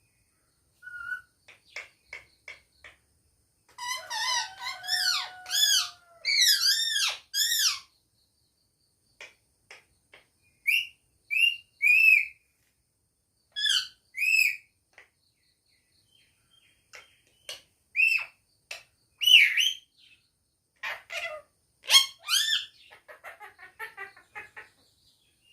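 Pet parrot calling in bursts of short arched whistles and squawks, some in quick runs of two or three, with a few soft clicks in the first seconds.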